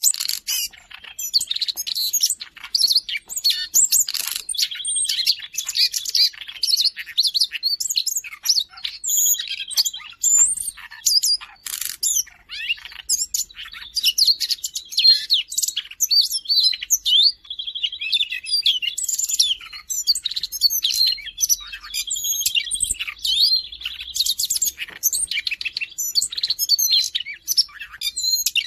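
Siberian rubythroat singing continuously: a fast, varied, high-pitched warbling song, broken several times by short buzzy trills held on one pitch.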